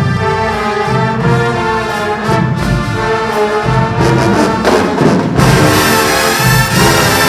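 Marching band playing loud brass with drums, trombones and trumpets carrying the tune. About five seconds in, the full band comes in louder, with cymbal crashes.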